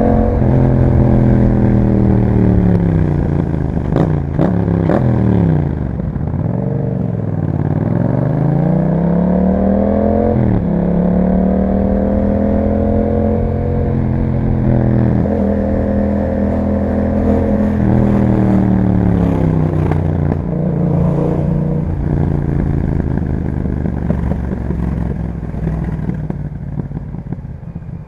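2021 Yamaha MT-07's 689 cc parallel-twin engine through an Akrapovic exhaust, ridden on the road: revs falling off, a few sharp cracks about four to five seconds in, then climbing again in several pulls, each cut short by a sudden drop in pitch, before easing off near the end.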